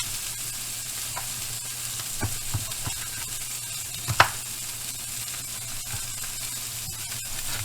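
Burger patties sizzling and frying in a pan, a steady hiss. A few light knocks sound between two and three seconds in, and one sharper, louder click comes about four seconds in.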